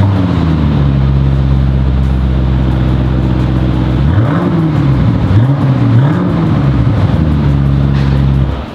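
Audi RS Q8's twin-turbo 4.0-litre V8 through a Quicksilver valved exhaust, dropping back to a steady idle and then revved twice, each rev rising and falling back to idle. The sound cuts off near the end.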